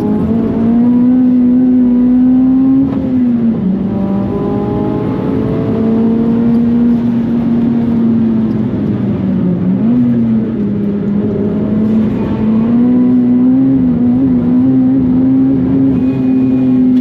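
Big-turbo Mitsubishi Colt R's turbocharged four-cylinder engine running hard at high, fairly steady revs, heard from inside the car. The engine note dips briefly about three seconds in and again about ten seconds in, then holds high again.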